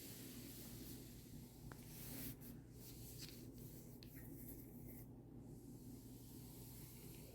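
Faint scratching and rustling over a low steady hum, stopping about five seconds in.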